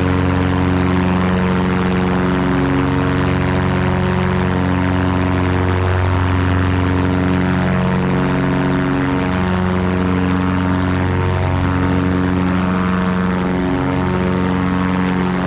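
Cessna 337 Skymaster's two 210-horsepower Continental piston engines and propellers, front and rear, running together as a loud, steady drone.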